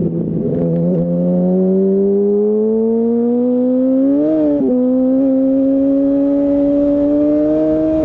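2008 Yamaha R1 inline-four engine through a Termignoni full exhaust, pulling under gentle acceleration with its note climbing steadily. About four and a half seconds in the pitch drops sharply at a gear change, then climbs slowly again.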